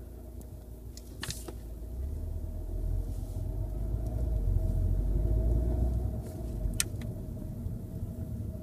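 Low rumble and a steady hum from a 2014 VW Golf GTI Mk7, swelling about two to six seconds in and then dropping away: the loud braking noise, with the pads reportedly still good and the discs having had roughness that was machined off. Two sharp clicks, about a second in and near the end.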